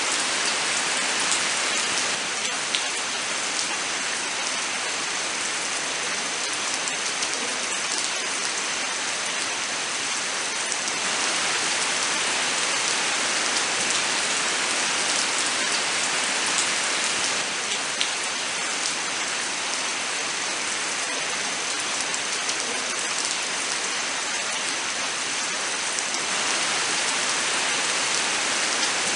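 Steady, heavy rain falling, a continuous hiss of water flecked with many small drop ticks.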